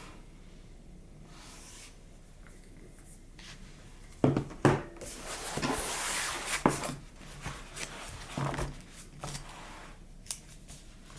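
Quiet room tone, then about four seconds in a few sharp clicks and knocks mixed with rustling for several seconds, as of objects being handled up close.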